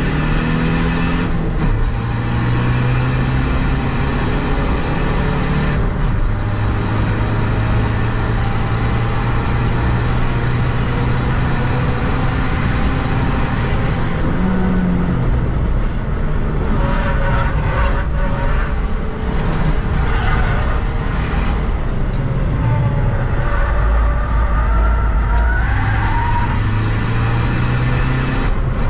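Seat Ibiza FR's 2.0 TDI four-cylinder diesel engine heard from inside the cabin while being driven hard on track. The engine holds a steady note for several seconds at a time and then changes pitch as it moves through the gears, over constant road and wind noise.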